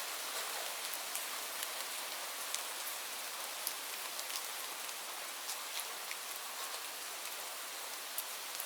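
Steady rain falling, an even hiss with scattered sharp drips of individual raindrops hitting a surface.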